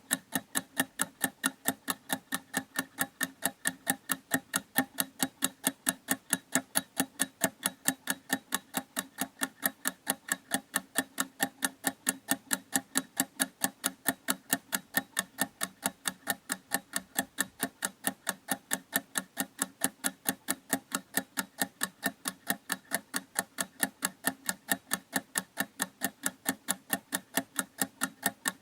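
Clock ticking: a steady, even run of sharp ticks, several a second, without a break.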